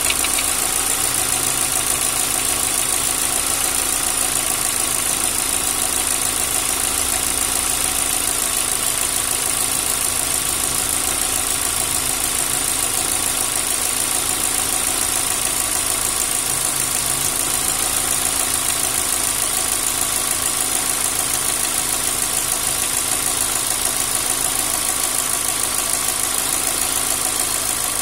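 Car engine idling steadily with a rapid, even ticking from the top of the engine: knocking hydraulic valve lifters (lash adjusters).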